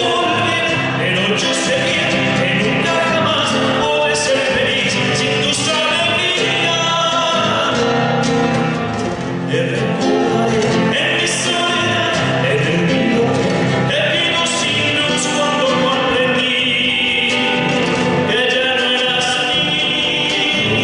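A folk song: a male singer with instrumental accompaniment.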